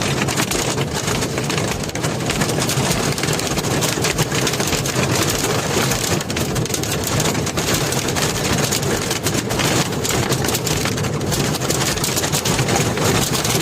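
Hail pelting a truck's cab and windscreen in a dense, unbroken patter of impacts, with the truck's engine idling underneath.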